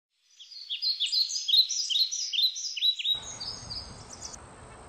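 Songbird chirping fast, a rapid run of short downward-sweeping notes several times a second, which stops a little past four seconds in. A steady outdoor background noise comes in abruptly about three seconds in.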